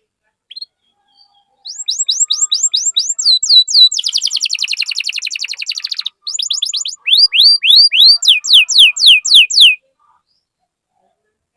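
Domestic canary singing in phrases of quickly repeated notes: first a run of short down-slurred notes, then a fast trill, then a series of loud, sweeping down-slurred whistles that stop about ten seconds in.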